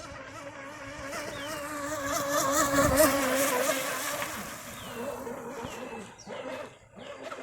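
U99 shovel-nose RC boat running on the water, its motor and propeller giving a whine that wavers in pitch. The whine grows loud about three seconds in as the boat passes close, then fades. Short, repeated falling chirps sound over it, mostly near the end.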